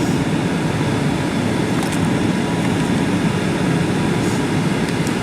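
Steady cabin noise of a Boeing 737-800 in flight: its CFM56 jet engines and the airflow around the fuselage make an even, low rumble.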